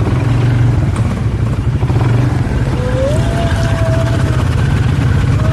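ATV engine running steadily with a strong low hum. A higher held tone glides up and holds for about a second and a half about three seconds in, and starts again at the very end.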